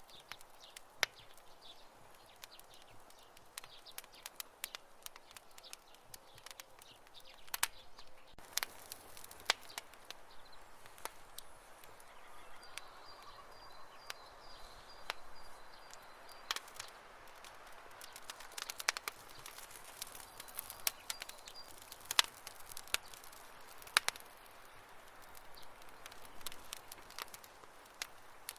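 Campfire wood crackling, with irregular sharp pops and snaps over a soft hiss of burning. A faint high chirping comes in twice behind it.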